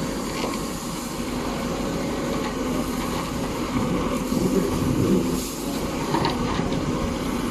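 Heavy machinery's engine running steadily, a continuous mechanical noise.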